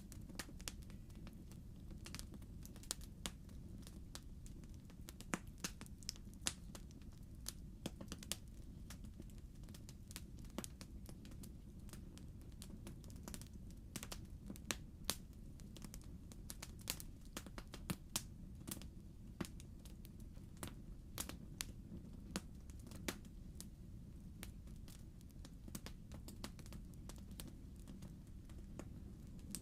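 Wood fire burning in a fireplace: logs crackling and popping in irregular sharp snaps over a soft, steady low rumble of the flames.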